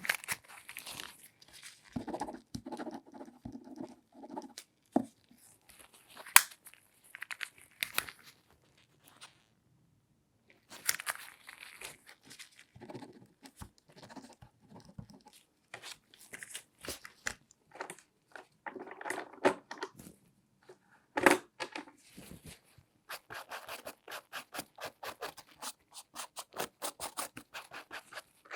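Close-up handling sounds from hands in latex gloves working over an object: scattered taps, sharp clicks and rustling, crinkling rubs. The loudest are two sharp clicks. Near the end comes a run of quick, even scratching strokes, about four a second.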